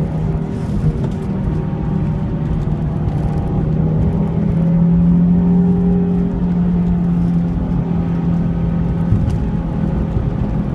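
Nissan 350Z's 3.5-litre V6 engine running at fairly steady revs, its note rising a little in the middle and easing off again.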